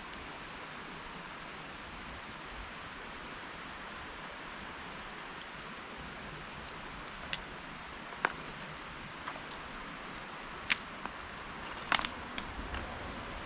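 Steady outdoor hiss with a handful of sharp clicks and snaps scattered through the second half, the loudest about seven and a half and twelve seconds in.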